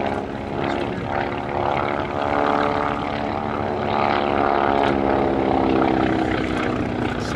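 Boeing P-26A Peashooter's 600 hp Pratt & Whitney Wasp radial engine and propeller running in flight, a steady drone whose pitch shifts slightly, loudest in the middle of the pass.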